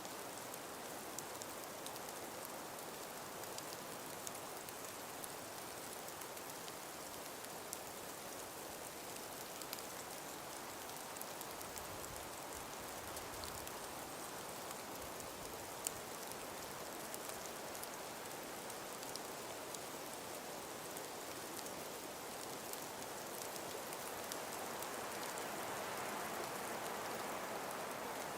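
Calm winter wind through a frost- and ice-covered forest: a steady, even hiss with many small scattered ticks and patters, swelling slightly after about 24 seconds.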